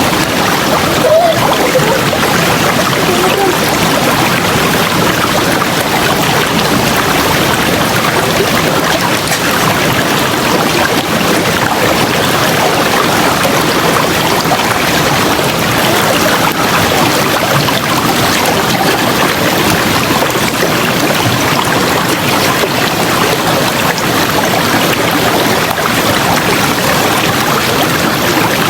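River water flowing, a steady rush with no let-up.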